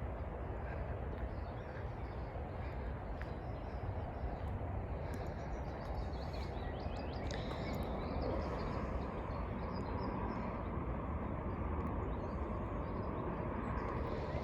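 Distant motorway traffic as a steady low rumble, with small birds chirping over it in short high calls.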